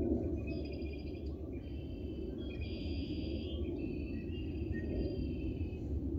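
Several birds chirping and singing in short, overlapping high-pitched phrases over a steady low background rumble.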